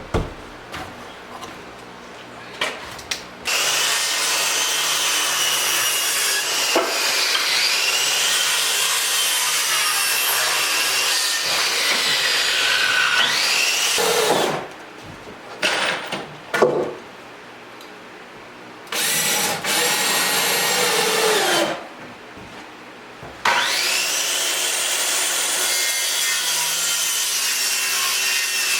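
A power tool working wood in three long runs, its pitch sagging and recovering as it is loaded, with short pauses and a few brief blips between the runs.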